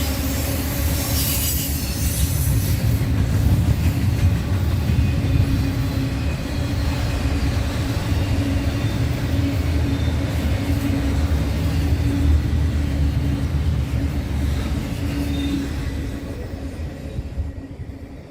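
Norfolk Southern freight train's cars rolling past with a steady rumble and wheel noise, and wheel squeal in the first few seconds. The sound fades away near the end as the train moves off.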